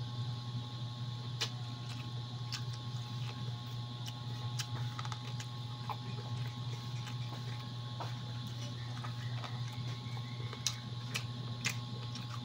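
Mouth sounds of a person chewing chicken: scattered, irregular soft clicks and smacks, over a steady low hum.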